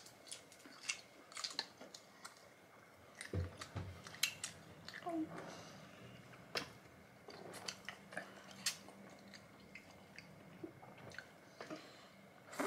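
Close-up chewing and smacking while eating jumbo prawns, with irregular sharp mouth clicks and wet smacks.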